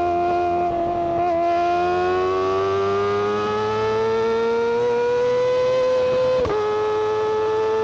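Kawasaki Ninja ZX-25R's 249 cc inline-four running at high revs through its exhaust, a high-pitched wail whose pitch holds, then climbs steadily for several seconds. About six and a half seconds in it breaks off briefly and settles at a slightly lower, steady pitch.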